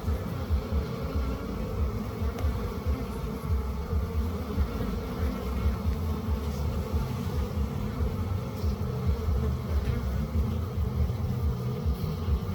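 Bees buzzing steadily, with a low rumble underneath.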